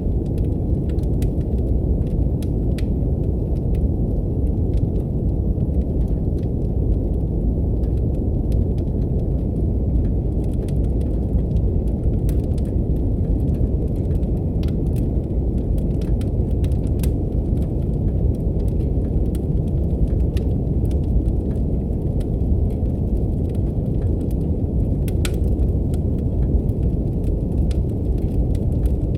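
Steady brown noise, a deep even rumble-like hiss, with the small scattered pops and crackles of a wood fire over it.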